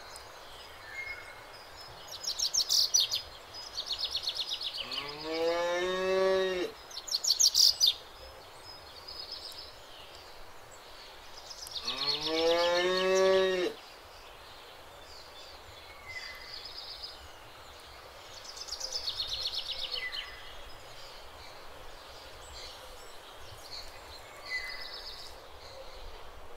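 A cow mooing twice, two long calls each rising in pitch, several seconds apart. Birds sing short high trills in between.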